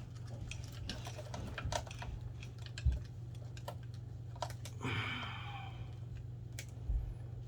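Scattered light clicks and taps of wires and plastic parts being handled and tucked into an e-bike frame, with a dull knock about three seconds in and a short rasp about five seconds in, over a steady low hum.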